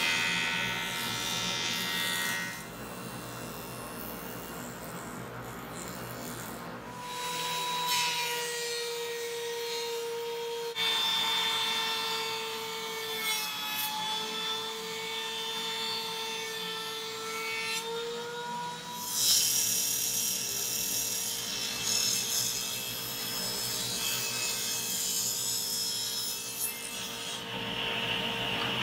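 Sawing through 2x4 lumber. In the middle stretch a steady whine sounds along with the cutting, then the cutting noise carries on.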